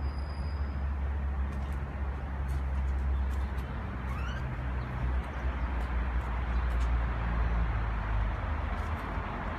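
Steady low rumble of traffic, with a single short rising call from a myna (jalak kebo) about four seconds in.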